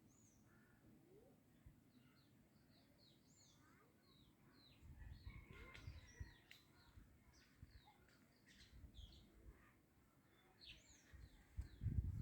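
Small birds chirping, many short, quick, falling calls one after another, faint against quiet outdoor background. A low rumble comes in about five seconds in and again near the end.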